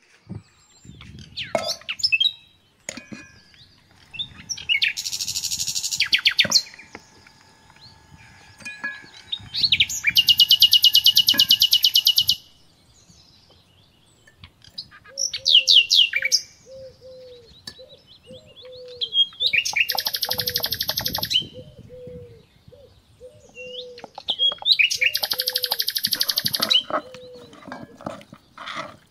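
Songbirds singing: loud, rapid high trills lasting a second or two and recurring every few seconds, with a run of lower repeated short notes through the second half.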